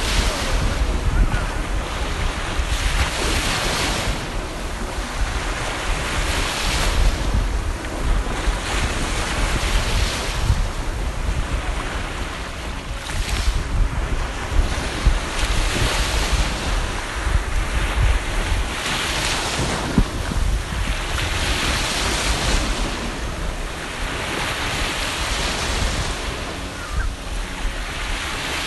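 Sea waves breaking and washing in, swelling again every few seconds, with wind buffeting the microphone as a low rumble.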